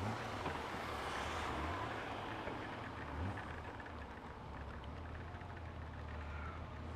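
Honda Gold Wing motorcycle riding in heavy rain: a steady hiss of wind, rain and wet road over the low, even drone of the engine. The hiss is a little heavier in the first couple of seconds.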